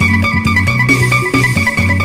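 Phin, the Isan lute, playing a lam sing tune with plucked notes over a low bass line that changes note about twice a second.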